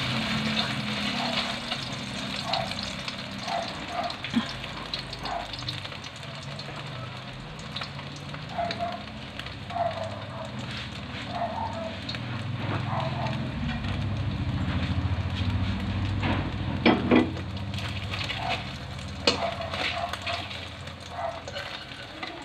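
Beef burger patties sizzling in shallow oil in an aluminium wok, with a few sharp knocks of a metal spatula on the pan about three-quarters of the way through.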